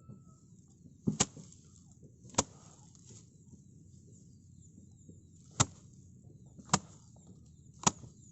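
Rice stalk bundles being beaten against a wooden threshing frame to knock the grain loose (gepyok threshing). There are five sharp strikes about a second apart, with a gap of about three seconds in the middle.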